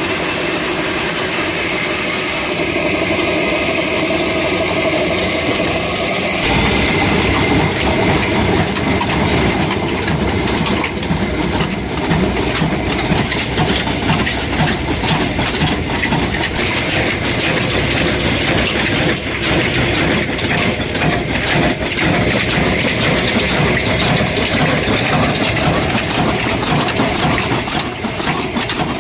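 Old 26 hp, 300 rpm black engine running with a steady mechanical noise and hiss. About six seconds in, the sound changes abruptly and becomes louder and rougher.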